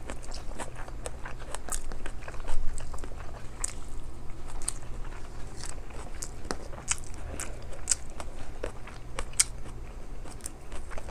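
Close-miked chewing of rice and mussel adobo eaten by hand: irregular wet smacks and small mouth clicks, several a second, with a little crunching.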